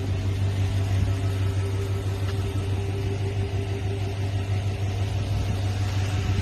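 Vehicle engine idling, a steady low hum with a few even tones above it.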